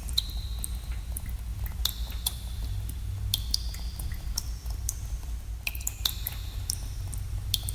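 Water drops falling in a cave, each drop a sharp plink with a brief ringing tone, several a second at an uneven rhythm, over a steady low rumble.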